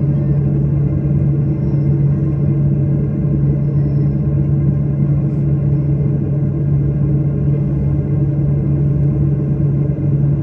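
Steady drone of an airliner's jet engines and rushing air heard inside the passenger cabin, with a constant low hum.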